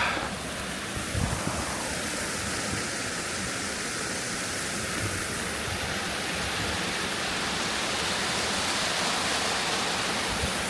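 Waterfall on a rocky creek, a steady rush of falling water that grows slightly louder toward the end, with a brief bump about a second in.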